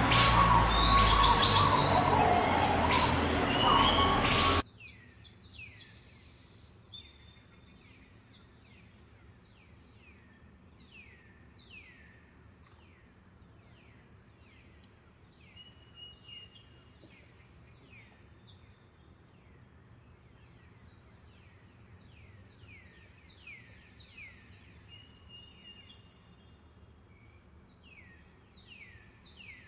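Forest birdsong with many birds singing at once, cut off abruptly about four and a half seconds in. After the cut the track is much quieter: a steady high insect-like trill with a bird repeating short downward-sweeping chirps, one or two a second.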